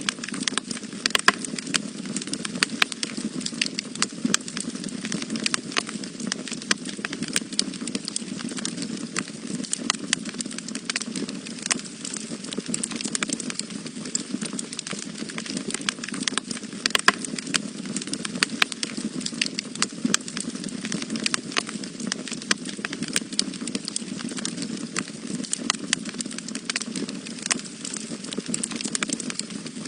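Wood fire burning in a fireplace: a steady low rush of flames with frequent irregular crackles and occasional sharper pops.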